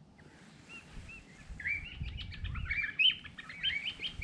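A bird singing a rapid, jumbled string of short chirping notes that starts about a second in, over a faint low rumble.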